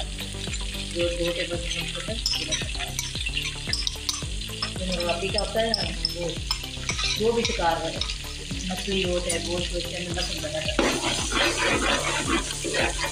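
Pieces of duck meat frying with onions in hot oil in a cooking pot, sizzling steadily while a long metal spoon stirs and scrapes through them.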